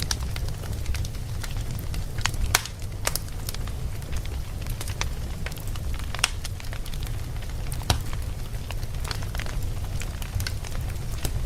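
Campfire burning: a steady low rumble of flames with irregular crackles and sharp pops from the burning wood, a few louder pops among them.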